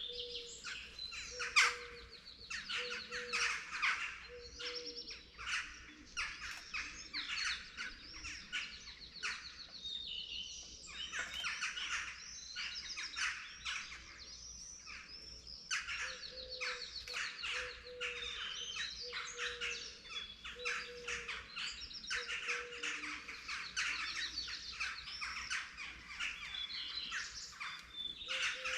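Dawn chorus of several songbirds singing and chirping at once, dense and continuous. A low short note repeats about once a second near the start and again through the second half.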